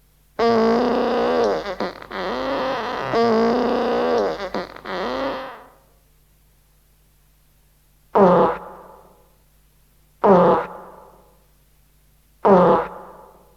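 Recorded fart sound effects: one long, wavering fart lasting about five seconds, then three short, sharp farts about two seconds apart.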